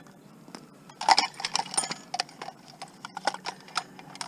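Irregular clinks and knocks of old metal wall lights and lamp fixtures being handled and moved about, with the loudest cluster of knocks about a second in.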